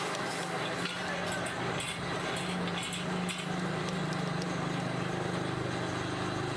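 Metalworking machine running with a steady low hum, with light metallic clinks and clicks over it.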